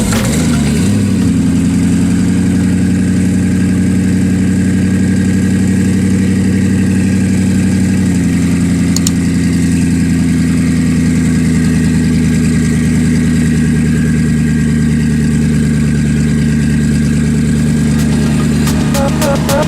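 A car engine idling steadily, its pitch stepping slightly lower about eight seconds in.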